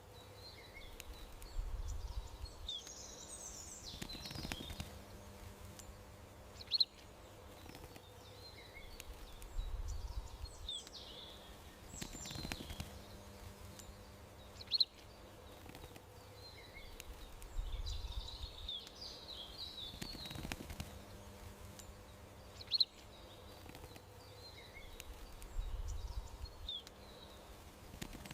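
Small garden birds chirping in short calls over a faint steady hum, with a sharp tick and a low rumble each recurring; the same stretch of garden ambience repeats about every eight seconds, as a looped track.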